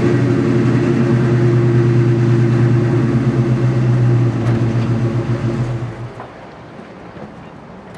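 Exhaust of a 2001 Mustang Bullitt's 4.6-litre V8 through BBK headers and Flowmaster two-chamber mufflers, running at a steady, even pitch, then dying away about six seconds in.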